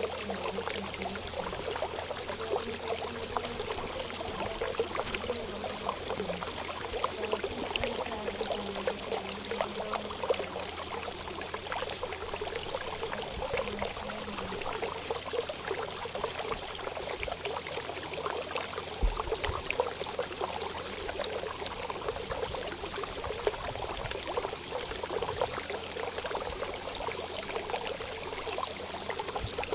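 Water trickling and splashing steadily, with many small droplet ticks.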